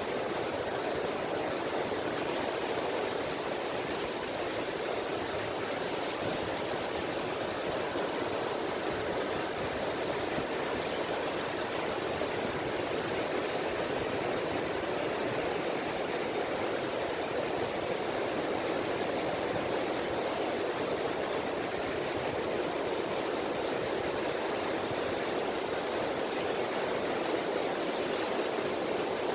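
Small waves of the Seto Inland Sea washing on a beach, a steady rush of water with no distinct breaks.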